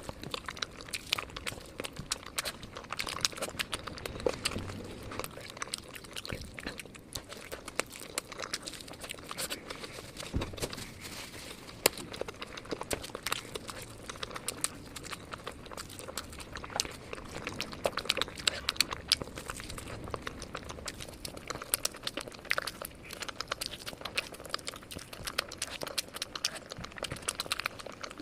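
Crispy fried chicken drumsticks being bitten and chewed into an ASMR microphone: a dense, irregular run of sharp crunches and crackles from the fried coating.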